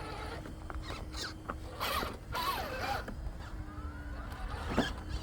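Axial SCX6 Honcho 1/6-scale RC crawler's electric motor and geared drivetrain whining at low throttle as it crawls over rock. The whine stops and starts and changes pitch, with scattered clicks and creaks and a sharp tick near the end.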